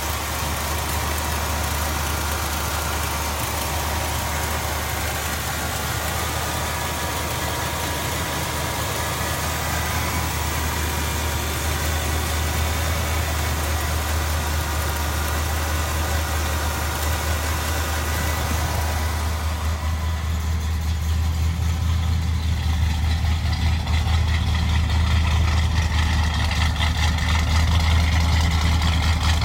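1968 Pontiac GTO's 400 cubic-inch V8 idling steadily with a low rumble, which gets somewhat louder about twenty seconds in.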